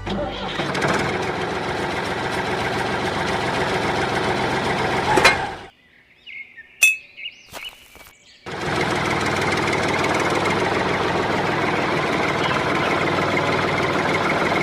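A small motor-driven machine running with a dense, rattling clatter. It cuts out for about three seconds near the middle, with one sharp click, then starts up again.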